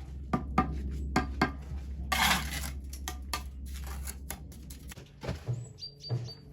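Sharp clinks and knocks of masonry hand tools against stone, with a short scraping rush about two seconds in. A steady low hum stops about five seconds in, and a few dull thumps follow.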